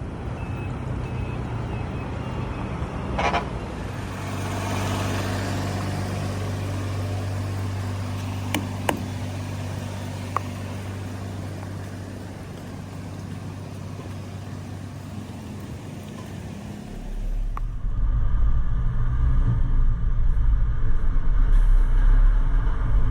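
Container truck engine running steadily with a low hum, with a few short clicks. About three-quarters of the way through it gets louder and deeper.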